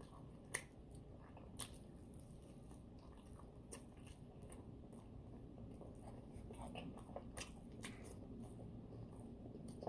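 Faint chewing and biting of a person eating fried chicken and fries, with scattered soft mouth clicks; a sharper click comes about half a second in and another about a second and a half in.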